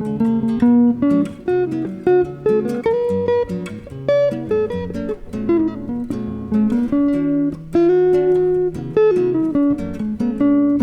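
A flamenco guitar and a Telecaster electric guitar playing a jazz duo: a steady flow of plucked melody notes over a lower line of held notes.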